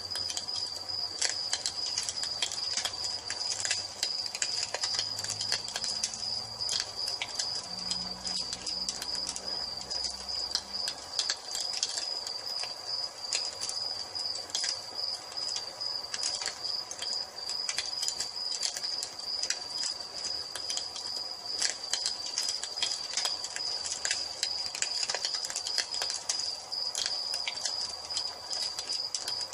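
Wood fire crackling with many irregular pops and snaps, over a steady high-pitched cricket trill.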